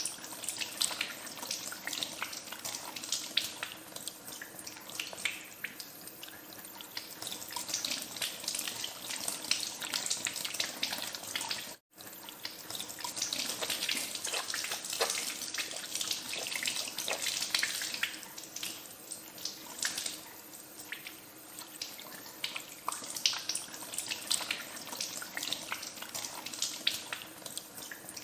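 Water running from a tap into a sink as hands are washed under it, with constant splashing. The sound cuts out for an instant about twelve seconds in.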